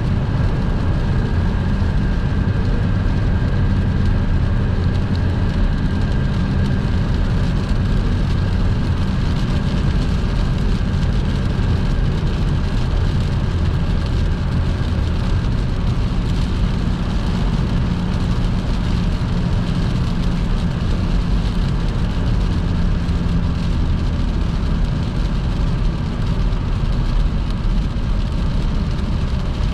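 Car driving on a wet highway in heavy rain: steady rumble of the tyres on the wet road and of the engine, with rain hitting the car. A faint high whine fades out about halfway through.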